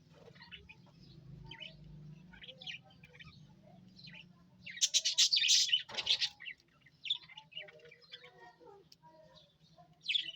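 A colony of budgerigars chirping and chattering, with scattered calls and a loud burst of rapid chirps midway, over a steady low hum.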